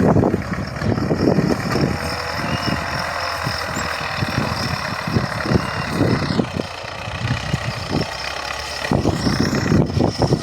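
Tractor engine running, with uneven low thumps throughout.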